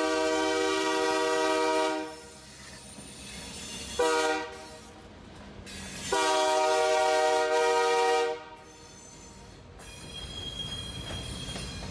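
Train horn sounding a chord of several steady tones: a long blast that ends about 2 s in, a short blast at about 4 s, then another long blast. A low rumble of the train builds near the end.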